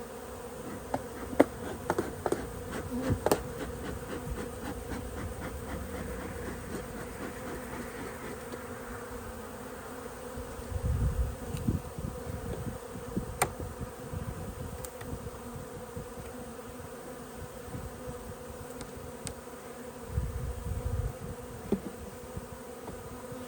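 Honey bees buzzing steadily around an opened hive. A few sharp clicks and knocks come in the first few seconds, and two short low rumbles come about eleven and twenty seconds in.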